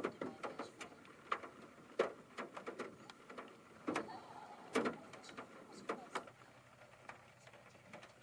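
Irregular light knocks and clicks, a dozen or so, scattered unevenly.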